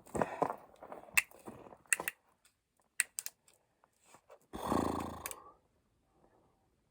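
Hiking footsteps crunching and clicking on loose rock and gravel during a climb. About four and a half seconds in there is one louder, pitched sound lasting about a second.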